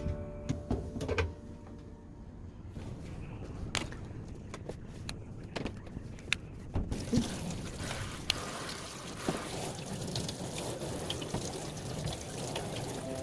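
Water pouring and running, setting in about halfway through after a few scattered clicks and knocks.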